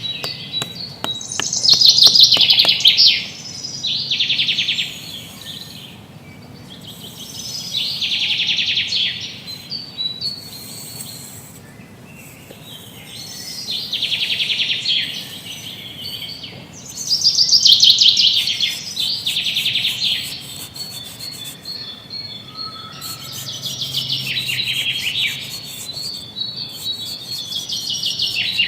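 Small birds chirping in repeated bouts of rapid, high trills every few seconds.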